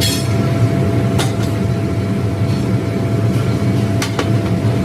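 Heavy factory machinery running with a steady low drone and a thin steady whine. Sharp knocks come at the start, about a second in, and again near the end.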